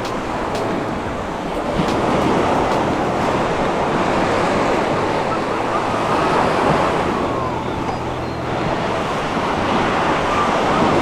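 Surf washing onto a beach: a continuous rushing of breaking waves that swells and eases, with a faint low hum underneath.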